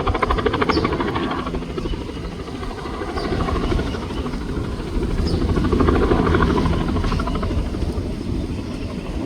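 Bell 206 helicopter's two-blade main rotor beating rapidly, with the running turbine underneath. It is loud, swelling at the start and again around six seconds in, easing off between.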